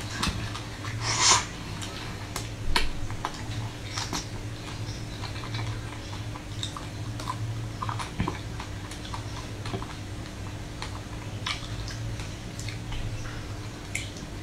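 Close-miked chewing of a crunchy crumb-coated ice cream bar: scattered crisp crackles and wet mouth clicks, with a louder crunch about a second in, over a steady low hum.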